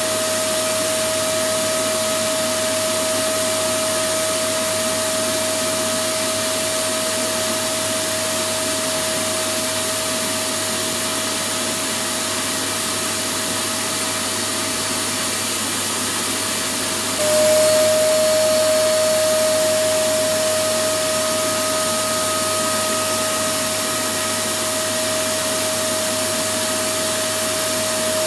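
Electric vacuum cleaner running steadily: a loud, even rush of air with a steady motor whine. About 17 seconds in it gets a little louder and the whine drops slightly in pitch, then it slowly settles back.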